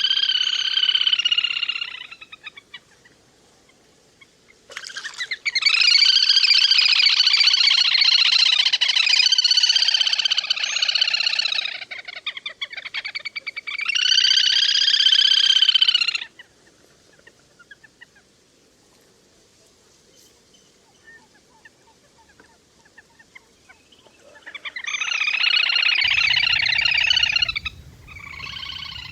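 Lesser whistling ducks calling in bouts of rapid, high calls with several pitches at once: one bout at the start, a long stretch of about six seconds from about five seconds in, a short one about fourteen seconds in, and two more near the end, with quiet gaps between.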